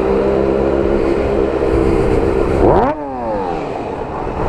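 Kawasaki ZX-6R's inline-four engine pulling steadily at low revs, then revving sharply upward about two and a half seconds in and falling away again just after.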